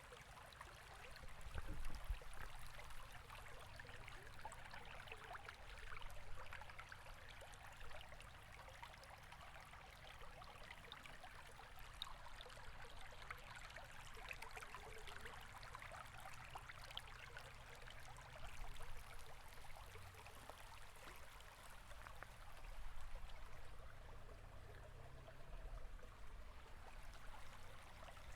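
River water flowing and gurgling steadily, with a low rumble that swells a few times.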